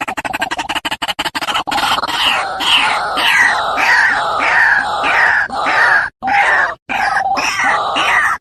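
White-breasted waterhen calls from a bird-lure recording: a fast even pulsing at first, then harsh croaking calls about twice a second, each sweeping down in pitch, with a couple of brief breaks near the end.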